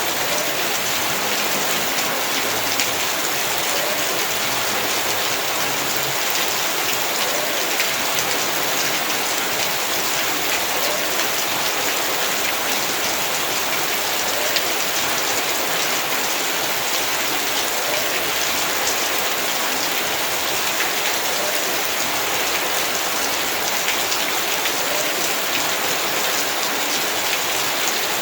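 Heavy rain falling steadily, a dense even hiss of many drops hitting the ground, with a few slightly louder drop ticks here and there.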